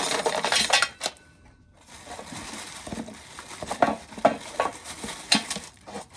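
Dry corn kernels and cobs clattering and rattling as ear corn is shelled by hand: a dense rattle for about a second, a brief pause, then scattered sharp clicks.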